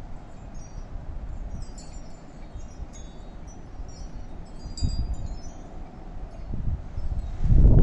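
Wind chimes tinkling in the storm wind, scattered high ringing notes, over low wind rumble on the microphone that swells near the end.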